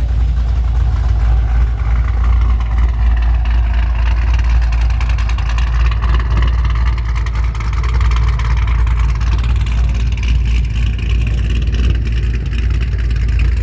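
Supercharged car engine running and being revved, a deep steady rumble under a whine that rises and falls in pitch.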